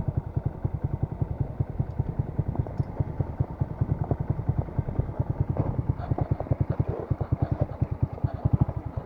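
Alpha motorcycle's single-cylinder four-stroke engine idling with an even chugging of about eight beats a second, then shut off, cutting out abruptly right at the end.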